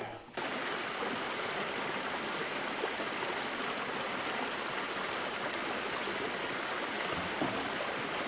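Creek water running steadily over rocks, starting suddenly about half a second in.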